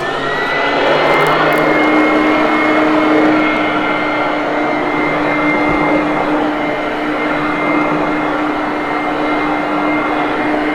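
Hoover Conquest upright vacuum cleaner motor starting up, its whine rising briefly, then running steadily with a high whine over the rush of air.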